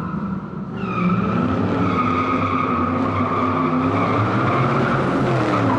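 A car engine running with tyres squealing. A steady high squeal sits over a lower engine note that rises and falls, cutting in sharply and getting louder about a second in.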